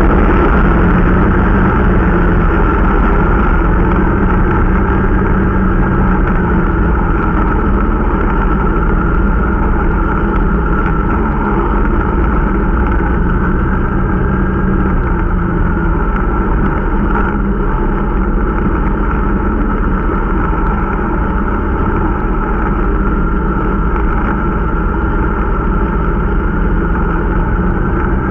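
Irbis Dingo T125 snowmobile's small 125 cc four-stroke single-cylinder engine running steadily during its break-in, its pitch wavering slightly.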